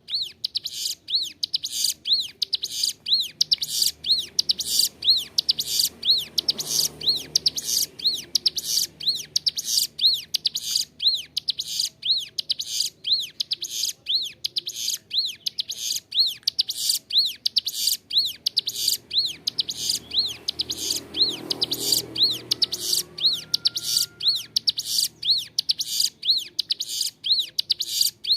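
Ciblek gunung, a prinia, singing persistently: short high arched chirps repeated about twice a second in an unbroken run.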